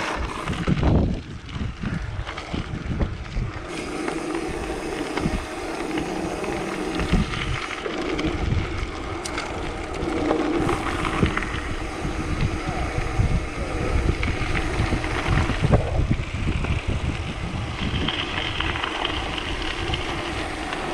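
Wind buffeting the microphone of a mountain bike in motion, with the uneven rumble of its tyres rolling over a crushed-stone gravel road.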